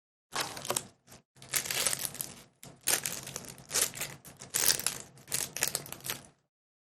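Foil Pokémon booster pack wrapper crinkling as it is handled and torn open, in a series of irregular rustles that stop about a second before the end.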